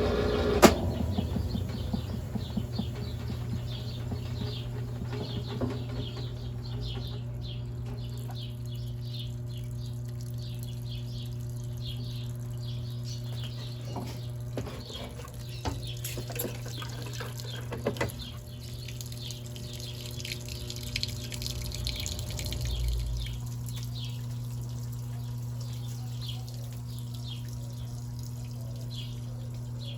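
Brastemp Ative 11 kg top-load washing machine filling its tub with water: a steady rush of water over a constant low hum, after a sharp click about a second in.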